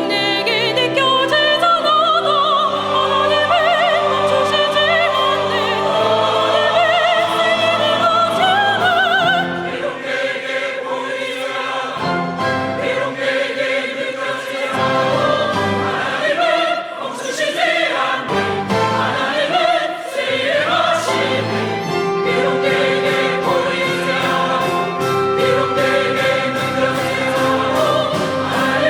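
Church choir singing a worship anthem with vibrato, over a small orchestra of strings and winds with piano and organ. The texture thins in the middle, and a steady drum beat ticks in near the end.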